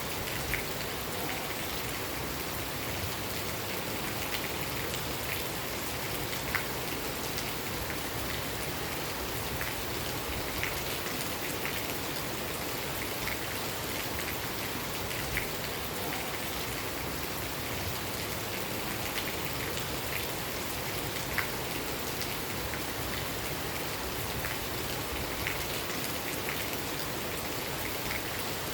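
Steady rain falling, a constant hiss with scattered louder drops plinking now and then.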